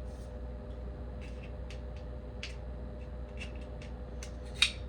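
Scattered light clicks and taps of small lamp parts being handled and fitted together, with one sharper click near the end, over a steady low hum.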